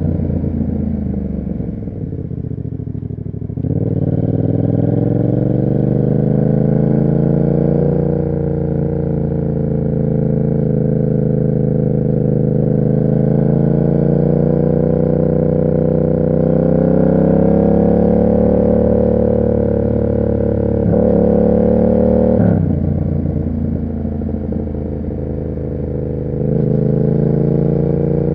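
Yamaha MT-07's parallel-twin engine through an SC Project aftermarket exhaust, under way on the road. Its pitch falls off at first, climbs again about four seconds in and slowly rises, drops sharply twice about two-thirds through, then picks up again near the end.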